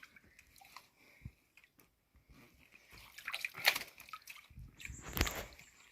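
Shallow, muddy pond water splashing and sloshing as hands grope through it for fish, in a few short bursts in the second half after a near-quiet start.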